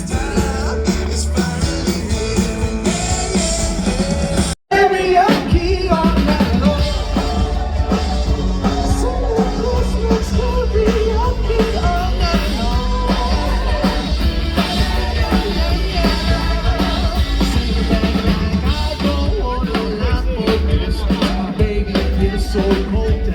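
Live band playing rock-style music with a singer. The sound cuts out for a split second about four and a half seconds in, then the song carries on.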